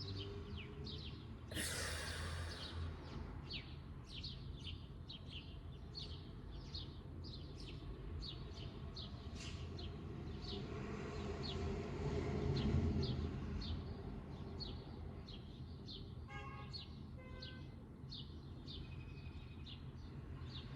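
Small birds chirping over and over in the background, a quick run of short high chirps. A brief rushing noise comes about two seconds in, and a louder swell of noise rises and fades around twelve seconds in.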